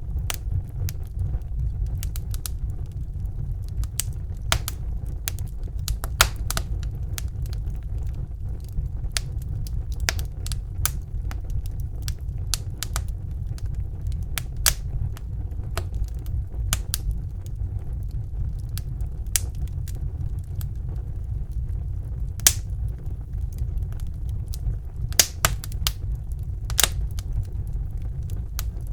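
Wood fire burning in a fireplace: a steady low rumble of the flames with irregular sharp crackles and pops from the burning logs, a few louder pops about three-quarters of the way through.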